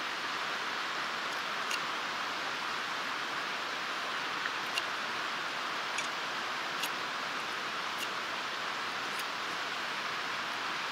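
Steady rushing of running water, with a few faint light clicks scattered through it.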